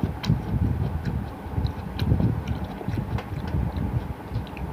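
Watermelon being bitten and chewed close to the microphone, with scattered wet clicks, over a steady low rumbling noise.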